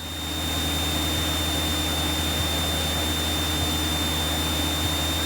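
Steady cockpit drone of a light aircraft's engine and propeller in flight, heard through the headset intercom, with a constant thin high-pitched electrical whine over it. It fades in during the first second, then holds level.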